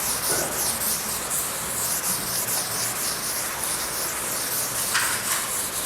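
Steady hiss of background noise, with no speech.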